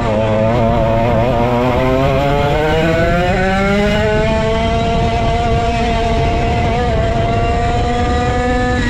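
Go-kart engine, a 135cc Sudam, accelerating hard. Its pitch climbs steadily for about four seconds, then holds high and edges slowly up, falling off just at the end.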